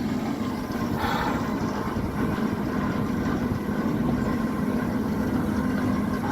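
The Cockle Train's locomotive running steadily, a low rumble with a constant hum under it.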